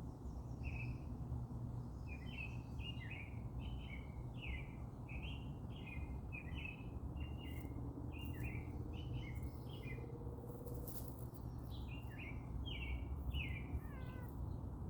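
A songbird singing a quick run of short chirping notes, about two a second, pausing briefly and starting again near the end, over a steady low background rumble.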